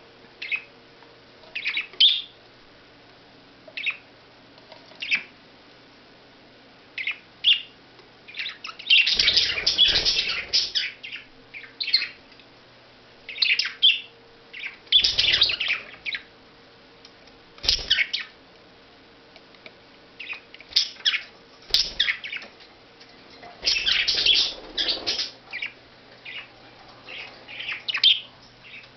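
Pet budgerigars chirping in short, scattered calls, breaking into a few longer, louder bouts of chatter.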